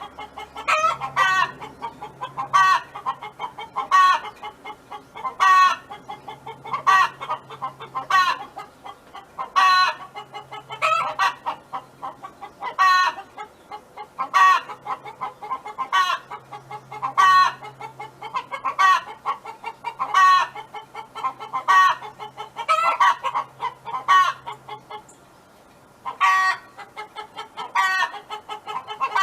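A domestic hen clucking, with a loud call about every one and a half seconds and softer clucks in between. The calling pauses briefly near the end, then resumes.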